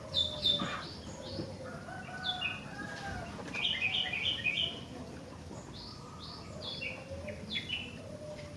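Sooty-headed bulbul (kutilang) singing: runs of short, quick, falling chirps, several in a row, over softer lower whistled notes.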